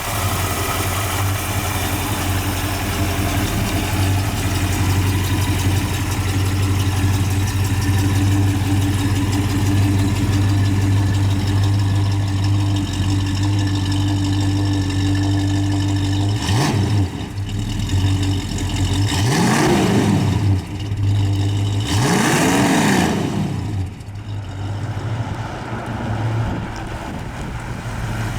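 A rebuilt 289 cubic-inch V8 idling steadily just after starting, then revved three times in the second half, each rev rising and falling quickly, before settling back to idle.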